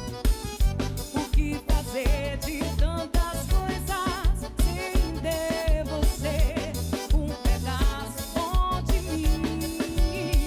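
Live band playing a Brazilian pop-forró song: a steady kick-drum beat with bass and keyboards under a wavering melodic lead line, without lyrics.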